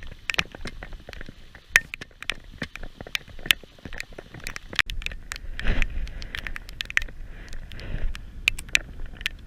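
Heavy rain, with big drops landing close to the microphone as sharp, irregular taps over a faint hiss. Two dull low thumps come about halfway through and again a little later.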